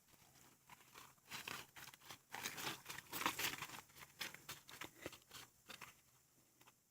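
Faint, irregular crunching and tearing in wet grass, from about a second in until near the end.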